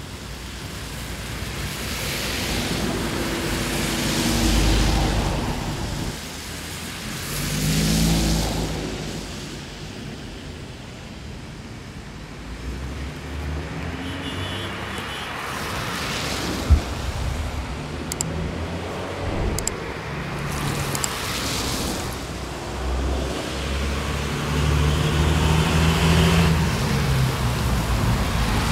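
Road traffic on a wet street: several vehicles pass one after another, each engine hum and tyre hiss swelling and fading away. There is one short sharp click about two-thirds of the way through.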